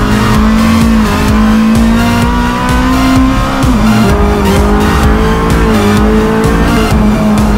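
Honda Civic Type R EP3 race car's engine, heard from inside the stripped cabin, pulling hard up the hill. Its pitch climbs slowly, then drops sharply about halfway and holds steady again.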